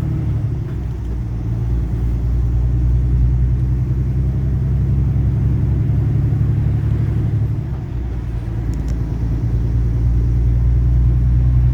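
Truck cab interior at highway speed: a steady, loud low drone of engine and road noise, dipping briefly about eight seconds in before picking back up.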